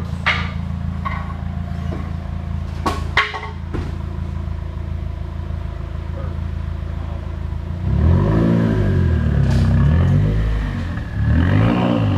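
2016 Subaru WRX's turbocharged flat-four, fitted with an 850 Fabrications exhaust manifold, idling steadily, with two sharp knocks in the first few seconds; about eight seconds in the engine is revved up and back down twice.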